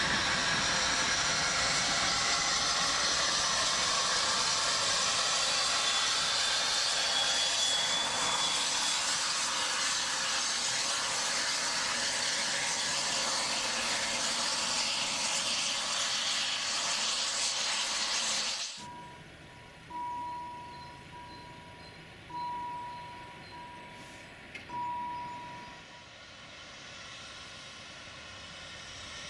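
Steam-hauled passenger coaches rolling past close by: a steady, loud rush of wheels on rail. It cuts off suddenly about two-thirds of the way in, leaving a quieter background with a high tone in short repeated notes and three brief swells in loudness.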